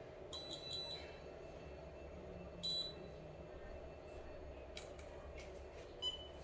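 Short high-pitched electronic beeps: three quick ones near the start, a single one partway through and a brief tone near the end, over a steady low hum.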